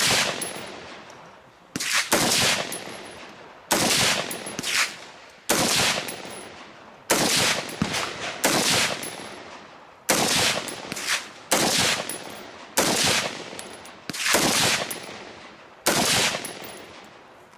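A series of about a dozen gunshots, roughly one every second and a half, each followed by a long fading echo, with a few fainter shots in between.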